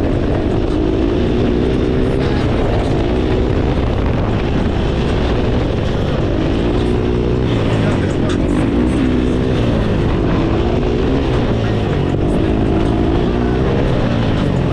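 Several dirt bike engines running together, revving up and down again and again over a steady low rumble.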